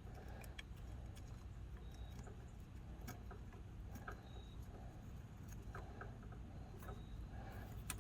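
Faint, scattered small clicks and taps of hands handling a snow blower's auger control cable and its fittings, over a low steady hum.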